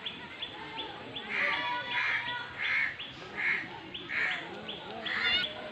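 A bird calling six times in a row, rough harsh calls about one every 0.7 s, over a faint rapid ticking in the background.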